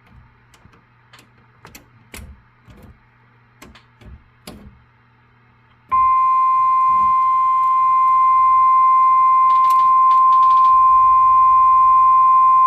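A series of sharp clicks from bench controls being switched. About six seconds in, a steady audio test tone of about 1 kHz starts suddenly and holds, loud, with a low steady hum underneath; this is the test tone used while checking the CB transmitter's power.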